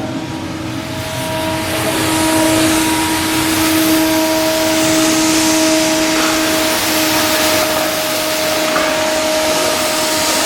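Shipyard machinery running steadily: a constant hiss with a steady whine of a few evenly spaced tones, like a motor-driven tool or blower at work.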